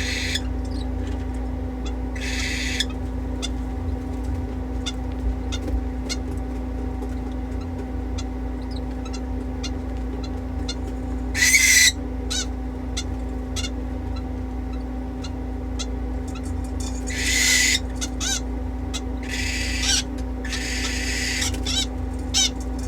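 Parrots in an aviary calling: small chirps throughout and several loud, harsh screeches, the loudest about halfway through and a longer run near the end. A steady low hum runs underneath.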